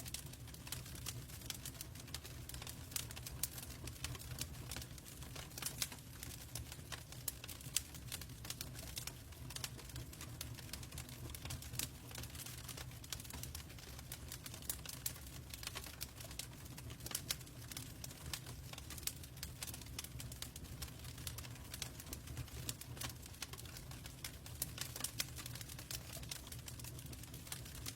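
Log fire crackling in a fireplace: frequent, irregular sharp pops and snaps over a steady low rumble.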